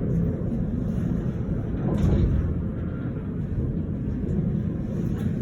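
Steady low rumble of a running vehicle, with a brief louder swell about two seconds in.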